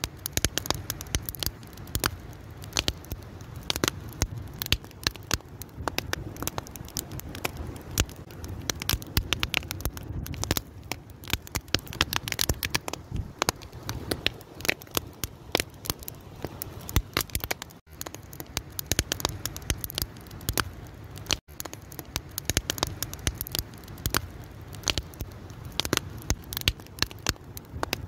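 Wood fire crackling: a dense, irregular stream of sharp snaps and pops over a low, steady sound of burning.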